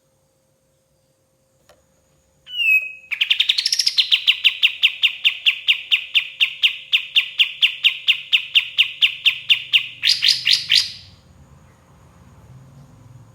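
Kapas tembak singing. A brief opening note is followed by a long, steady trill of rapidly repeated notes, about four or five a second. It ends in a louder, quicker flourish about three-quarters of the way through.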